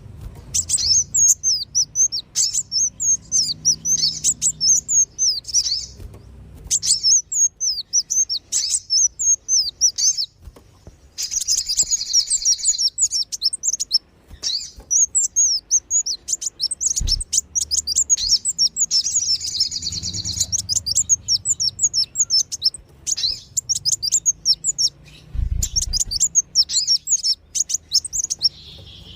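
Kolibri wulung and sogon sunbirds chirping and twittering in fast, high-pitched runs broken by short pauses: a bird-lure recording. Two brief low thuds sound partway through.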